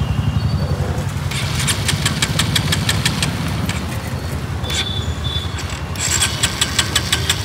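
Bajaj Pulsar 150's single-cylinder engine running roughly on the last of its petrol, with two stretches of rapid ticking as the throttle is worked; the tank is all but empty.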